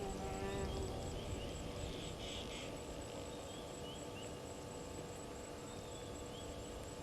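Afternoon bush ambience at a waterhole: a steady, evenly pulsing insect trill, with short bird chirps. There is a brief animal call at the very start and another short call a little over two seconds in.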